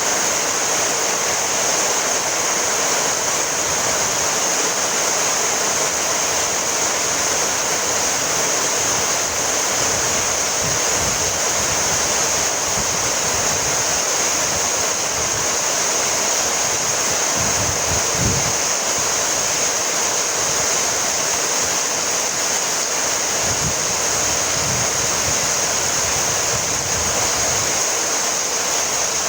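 Heavy rain falling steadily, an even hiss with no breaks, with a few faint low rumbles in the middle.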